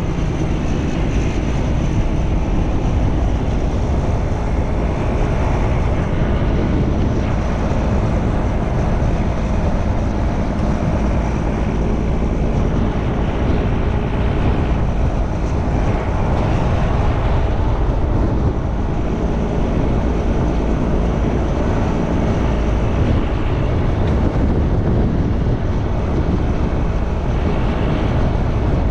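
Strong wind buffeting the camera's microphone through its wind guard, a loud, steady rumble.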